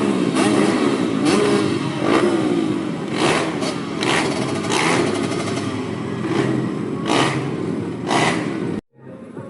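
Several off-road racing motorcycles running on the track, engines revving up and down as they ride past. The sound drops out abruptly near the end and comes back quieter.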